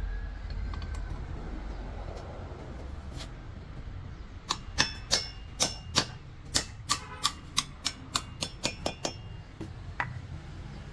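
Hammer striking steel, about fifteen sharp ringing metallic blows at roughly three a second, starting about four and a half seconds in after a low rumble.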